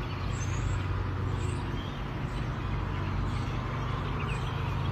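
Steady low mechanical hum of a running engine or motor, with a few faint, short high chirps now and then.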